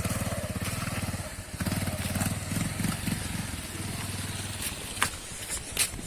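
Motorcycle engine running at low speed, picking up briefly between about one and a half and three seconds in, then easing off and fading.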